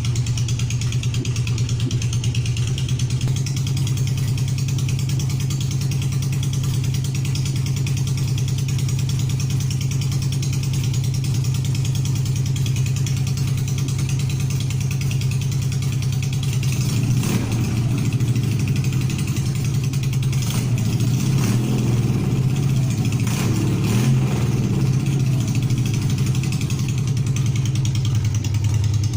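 An engine idling steadily, blipped up in a few short revs about two-thirds of the way through before settling back to idle.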